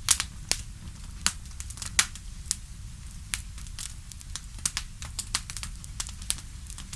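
Fire crackling in a fireplace: irregular sharp pops and snaps, a few each second and some louder than others, over a steady low rumble.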